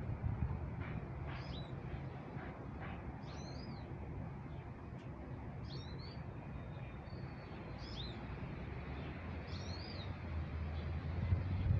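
A songbird repeats a short, high, curling call phrase about every one and a half to two seconds, over a steady low background rumble.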